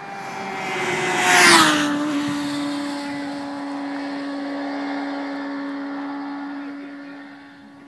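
A 600cc inline-four sportbike passes at speed under high revs. The engine note builds to its loudest about a second and a half in, drops in pitch as the bike goes by, then holds a steady tone as it fades into the distance.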